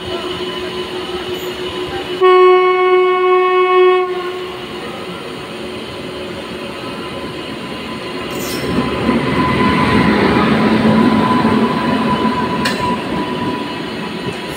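A locomotive horn sounds once, a single steady tone about two seconds long. A WAP-7 electric locomotive and its coaches then pass close on the adjacent track, the rumble of wheels on rail growing louder as they go by.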